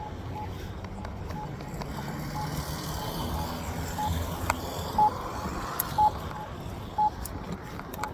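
Short electronic beeps at one pitch, faint and irregular at first, then three louder ones a second apart about five seconds in, over a steady rumble of passing traffic.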